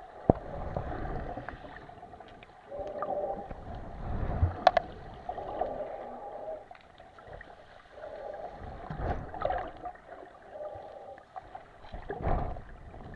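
Mediterranean sea water washing and sloshing, in surges every few seconds with a low rumble and a few small clicks.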